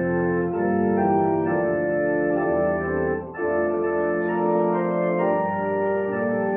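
Organ playing a slow run of held chords that change every half second or so, with a short break about three seconds in.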